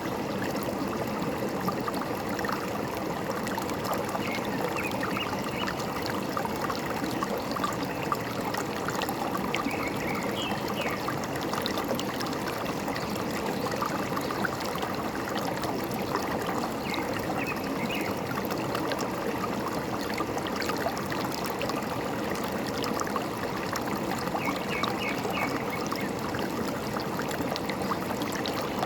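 Forest stream trickling and gurgling steadily, with short bursts of quick bird chirps a few times.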